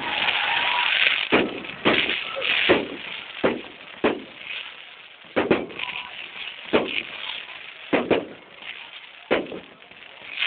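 Aerial fireworks going off: a string of sharp bangs at irregular intervals, about a dozen over ten seconds, with a hissing crackle in the first second or so.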